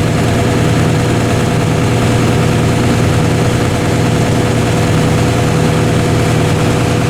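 Tractor engine running steadily at working speed, driving the grain cart's unloading auger through the PTO, with a steady whine held above the engine.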